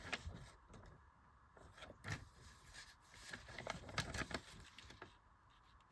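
Faint, scattered clicks and scrapes of small plastic LEGO pieces being handled and sorted, a little busier about three to four seconds in.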